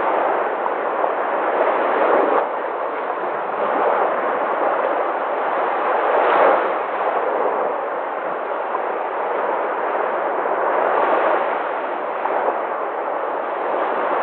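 Sea waves breaking on a shore in a continuous rush of surf, swelling three times as waves crash.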